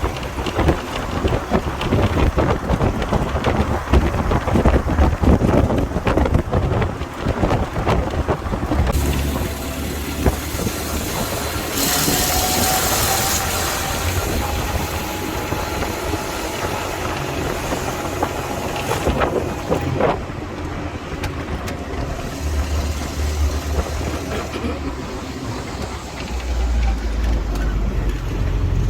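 Motor vehicle on the road, heard from inside: steady engine and road rumble with rattling. A brief hiss comes about twelve seconds in, and a sharp knock comes about twenty seconds in.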